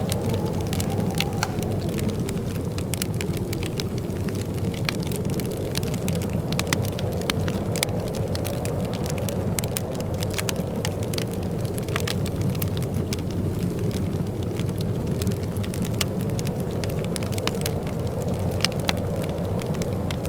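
Fireplace crackling: frequent sharp pops and snaps over a steady low rumble.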